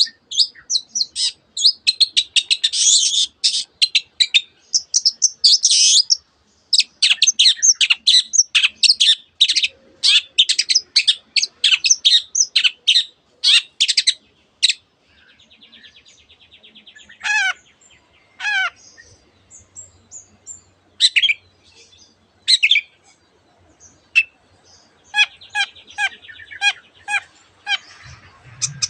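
Long-tailed shrike singing a fast, dense string of sharp high chirps, its song packed with mimicked phrases of a canary and other birds. About halfway through comes a buzzy trill, then sparser swooping notes and another trill near the end.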